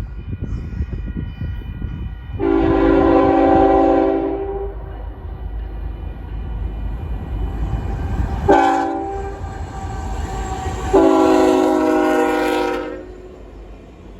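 Union Pacific locomotive's multi-chime air horn sounding three blasts, long, short, then long, over the low rumble of the passing train.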